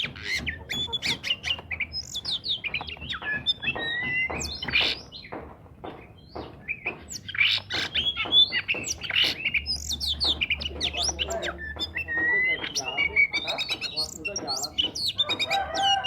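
Oriental magpie-robin singing energetically: a rapid, nearly continuous run of varied whistles, chirps and harsh squawking notes, with a short lull about six seconds in.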